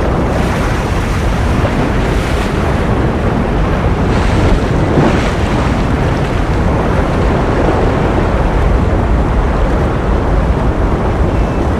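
Ocean surf washing in a steady, dense rush, with waves swelling a little louder and brighter about two seconds in and again around four to five seconds in.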